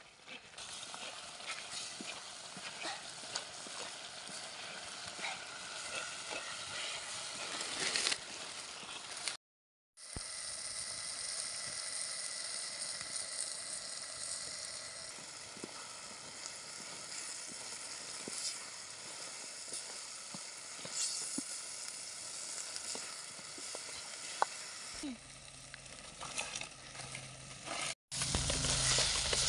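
Chicken frying in an earthen clay pot over a wood fire: a steady sizzle with light knocks and scrapes from a green stick stirring it.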